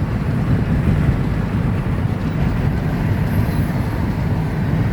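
Freight train of tank cars rolling past, a steady low rumble of wheels on the rails.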